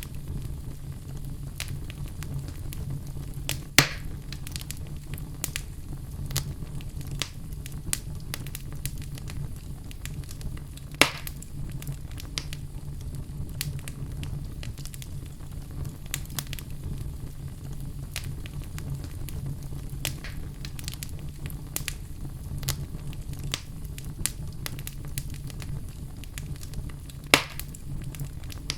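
Crackling fire: a steady low rumble with frequent small crackles and three louder pops.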